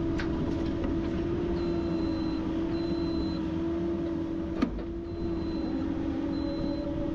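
Caterpillar 308 excavator's diesel engine running steadily with a constant whine over the rumble, and faint high beeps repeating about once a second. A single sharp knock comes about two-thirds of the way through.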